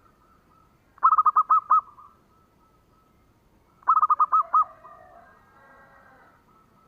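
Zebra dove (perkutut) cooing: two quick staccato phrases of about six or seven rapid coos each, one about a second in and one about four seconds in. Fainter bird calls follow the second phrase.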